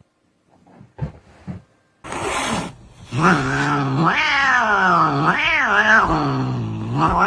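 Domestic cat yowling: a short call, then one long drawn-out yowl of about four seconds that rises and falls in pitch, after a few soft knocks.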